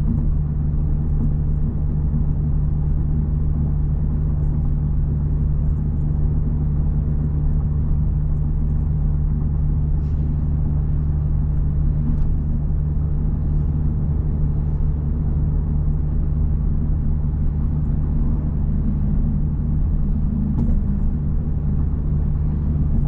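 Steady low rumble of an Audi S5 on the move, heard from inside the closed cabin: engine and road noise holding an even level.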